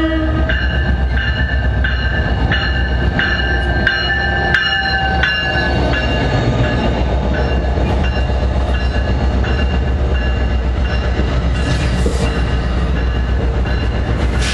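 Diesel-hauled commuter train passing close by, its low engine and wheel rumble steady throughout. A horn blast ends just as it begins. A bell rings about one and a half strokes a second for the first six seconds, then stops. Two short hisses come near the end.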